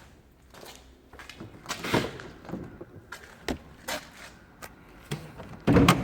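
A series of knocks and clicks from something being handled, with a heavy thud near the end.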